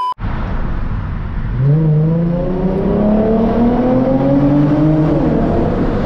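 Car engine pulling hard under acceleration, its pitch climbing steadily for about three and a half seconds, then dropping near the end as the revs fall back, over steady road and tyre noise.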